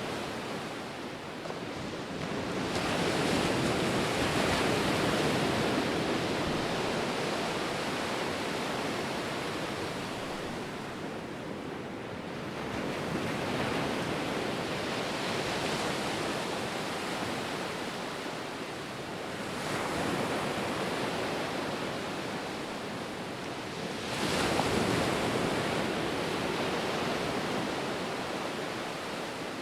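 Ocean surf: waves breaking and washing ashore in a steady rush, swelling into a louder break about every five to ten seconds, four times in all.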